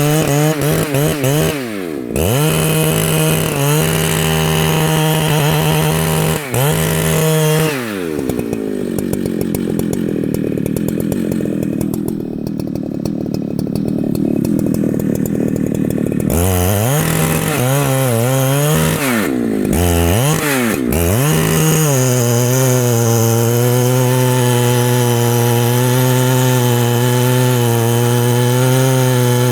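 Husqvarna two-stroke chainsaw revving up and down in bursts. Through the middle, for about eight seconds, its pitch drops and the sound thickens as the chain works under load. It then revs up and down again and settles into a steady, even run near the end.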